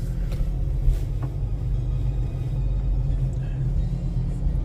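Steady low road-and-engine rumble inside a moving car's cabin, with a few faint clicks.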